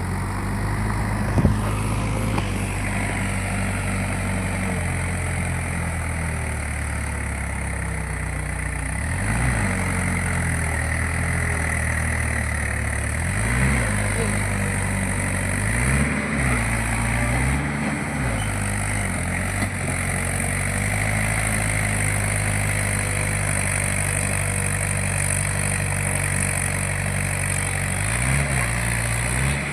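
Mahindra 585 tractor's diesel engine running steadily, its speed dipping briefly and recovering several times. There is one sharp knock about a second and a half in.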